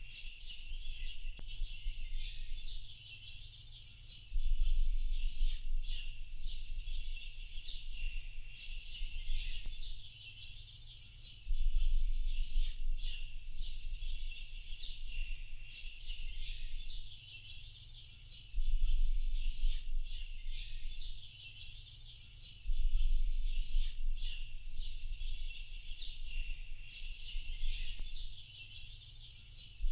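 Dense chorus of many small birds chirping and twittering over one another without pause, high-pitched. A deep low rumble swells in abruptly every several seconds, loudest each time it comes.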